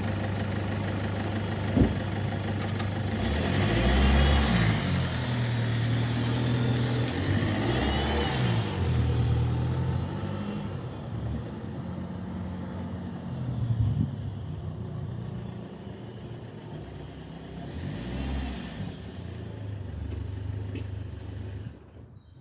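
Opel Vectra car engine running at idle, with its speed rising and falling a few times, then cut off shortly before the end.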